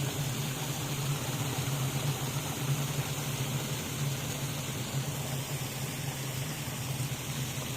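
Turgo micro-hydro turbine running: its water jet hissing and splashing steadily on the Turgo wheel, with a steady low hum from the direct-drive washing-machine motor working as the generator.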